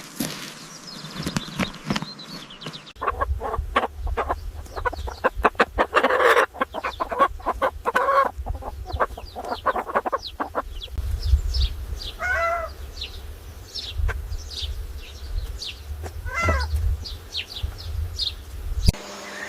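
Chickens clucking, with many short, high downward-sliding peeps in quick succession and a couple of longer pitched calls. A low rumble of wind or handling noise lies underneath.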